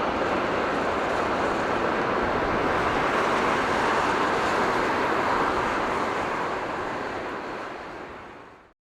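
Boeing 777 jet engines on arrival: a steady rushing noise that fades away near the end.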